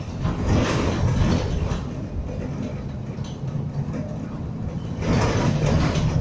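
Bus engine and driveline heard from inside the passenger saloon as the bus drives: a steady low hum with a held droning tone, the 'hoover' that bus enthusiasts listen for. The tone grows louder about five seconds in, over light interior rattles.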